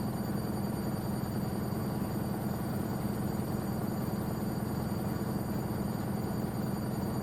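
Restored Gorenje UseLogic washing machine running with a steady low rumble from its brushed Selni motor and drum, and a faint steady high whine.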